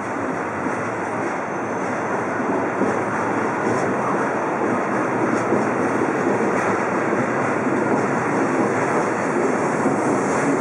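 Shinkansen train in motion alongside the platform: a steady rushing run that grows slowly louder.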